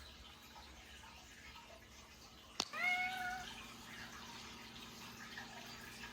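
A domestic cat meows once, a single short call about halfway through, right after a sharp click.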